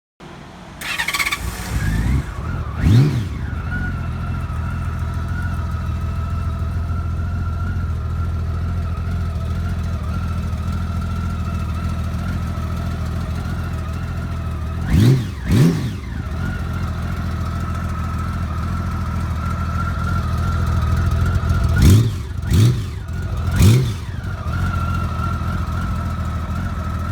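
Honda Valkyrie motorcycle's flat-six engine starting through its original exhausts, catching about a second in with a quick rev, then idling steadily. The throttle is blipped twice about halfway through and three times near the end.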